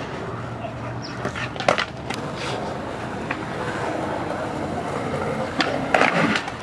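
Skateboard wheels rolling over concrete as a steady rumble, with sharp clacks of the board at the start, twice a couple of seconds in, and twice again near the end.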